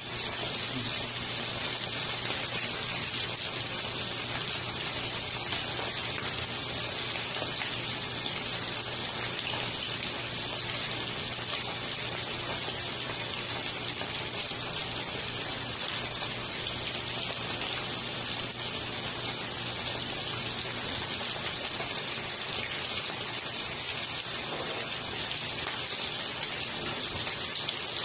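Coated chicken pieces frying in a pan of hot oil, a steady sizzle and crackle.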